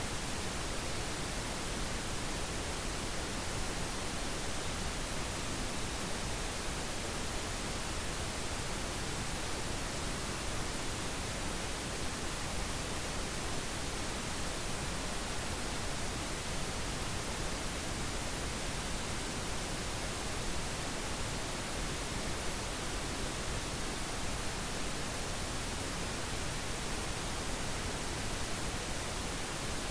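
Steady synthetic pink noise: an even, unchanging hiss spread across the whole range of pitch, with no rhythm or events.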